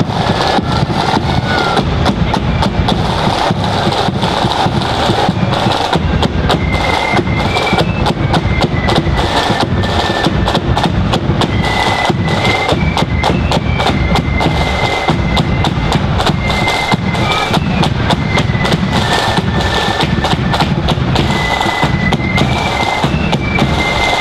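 A marching flute band playing: dense, rapid snare drumming and bass drum, with a flute melody heard more faintly above the drums.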